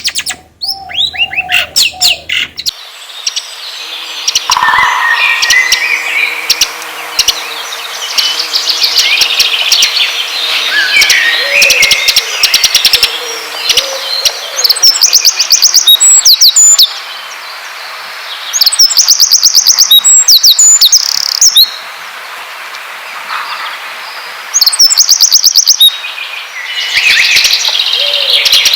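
Songbirds chirping and singing densely, with loud bursts of rapid high trills that come three times. It is a lure recording of the kind played to set chattering songbirds singing.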